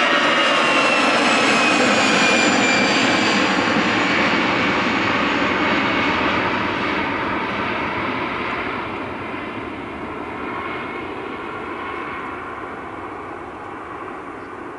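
Airbus A320-211's two CFM56-5A1 turbofan engines at takeoff power as the jet passes and moves away: a loud roar with a whine that falls in pitch, then the whole sound fades steadily.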